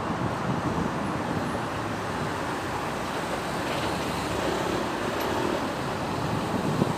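Steady road traffic noise of a busy city street, a continuous wash of vehicles passing.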